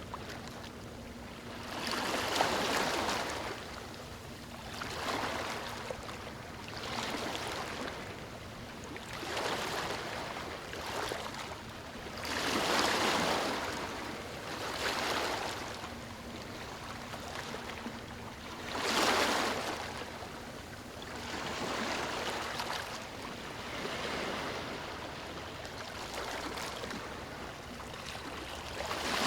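Ocean waves washing onto a beach, a new rush of surf every two to three seconds, each rising and fading away; the biggest come about two, thirteen and nineteen seconds in.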